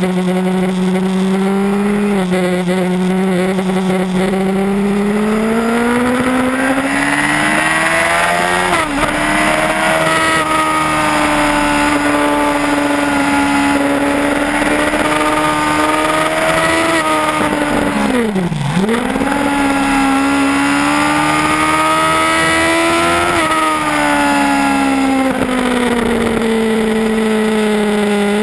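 Yamaha R1 sportbike's inline-four engine under hard riding, over a rush of wind noise. The engine note climbs steadily for several seconds and is then held high. About two-thirds of the way through it drops sharply and briefly as the throttle closes, then climbs again. It falls away once more and starts rising near the end.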